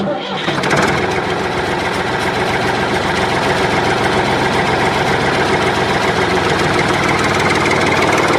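A small engine or motor running steadily with a fast, even rattle. It starts abruptly and runs at a constant speed without revving.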